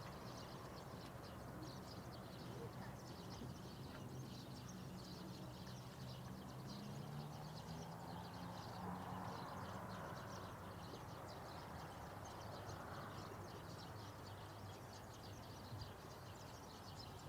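Faint, distant jet aircraft engine hum that wavers slightly in pitch midway, under a steady patter of tiny high-pitched clicks.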